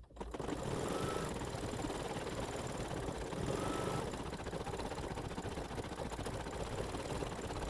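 Embroidery machine stitching a satin-stitch trim: a steady, fast needle rhythm that starts as the speech ends.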